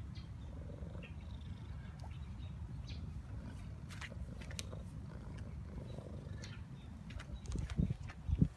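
Domestic cat purring: a steady low rumble, with faint scattered ticks and two brief low thumps near the end.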